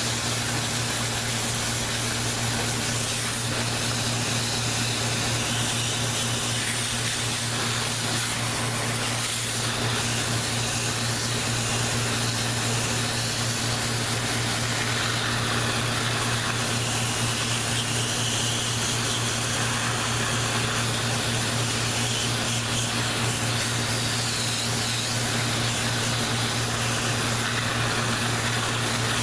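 Steady hiss of water spraying over a steady motor hum from a pump, washing down a dirty evaporator coil.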